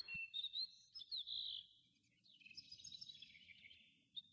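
Faint birds chirping: scattered short, high notes, some gliding up or down, over a faint low hiss.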